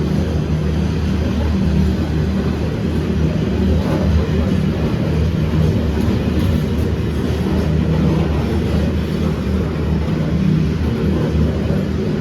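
Diesel freight train running past, its 82 and 81 class diesel-electric locomotives giving a steady low drone with the rumble of the train.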